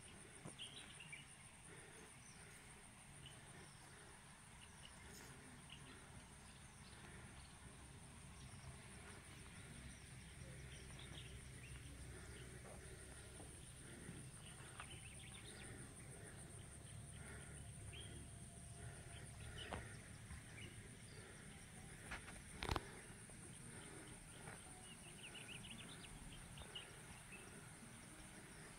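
Faint outdoor rural ambience: a steady high, pulsing insect trill with scattered short bird chirps over a low rumble, and one sharp click about three-quarters of the way through.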